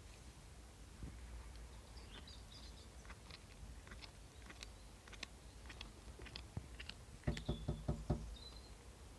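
A pet eating a snack: small scattered crunching clicks, then a quick run of about six louder knocks about seven seconds in, with a few brief high chirps.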